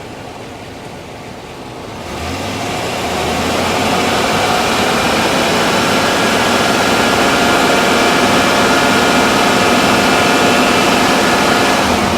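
Chevrolet K2500 pickup's Vortec V8 running under the hood with a freshly fitted alternator during a charging-system test. About two seconds in it comes up to a higher, steady speed and holds there, with steady whine tones over the engine sound.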